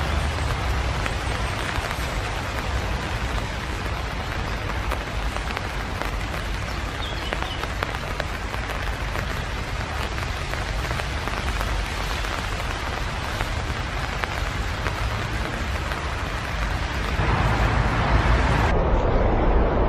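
Steady, dense pattering noise full of fine ticks, with a low rumble underneath. It grows louder and changes near the end.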